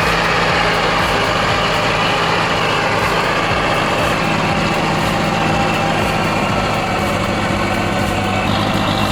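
Heavy machine engine running steadily under load, a dense mechanical din with a low, even hum.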